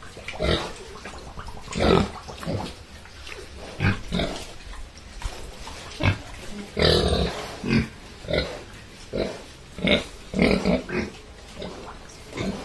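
Pigs grunting in short, irregular bursts while feeding, with one longer, louder call about seven seconds in.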